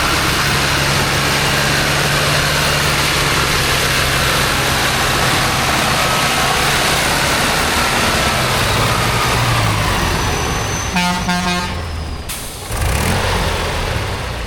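Heavy off-road competition truck's diesel engine running hard under load, a dense loud roar over steady low engine tones. About eleven seconds in, a short pitched toot sounds, and the engine noise briefly drops and then returns.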